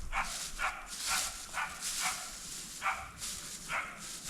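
A dog barking or yapping in short, separate calls, about one every half second, with some rustling hiss between them.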